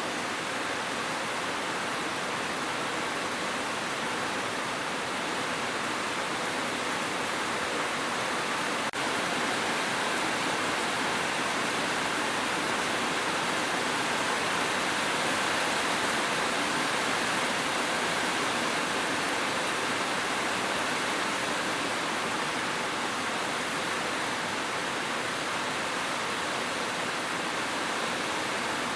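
Rain falling as a steady, even hiss with no separate drops standing out. There is a brief dip about nine seconds in, like a join in a looped recording.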